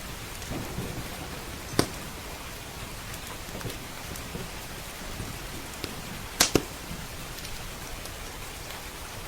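Steady rain hissing, with sharp pops from a crackling wood fire: a loud single pop about two seconds in and a quick double pop about six and a half seconds in.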